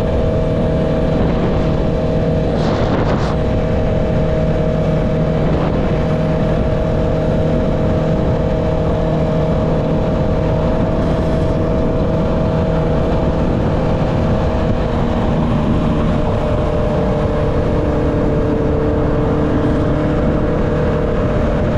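Honda CB650R's inline-four engine through its Akrapovic exhaust, running at a steady cruise, the note easing slightly lower about two-thirds of the way through.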